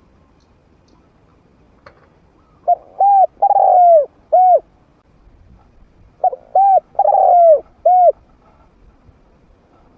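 Trained spotted dove with a medium-pitched voice cooing: two phrases of four coos each, the third coo of each phrase drawn out longer, a few seconds apart.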